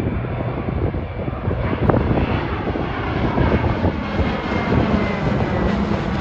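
Twin Pratt & Whitney R-1830 radial engines of a PBY-5A Catalina flying boat, running steadily as the aircraft flies a display pass.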